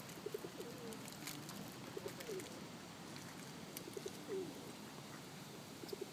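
Pigeons cooing: short, low coos that come in little groups every second or two.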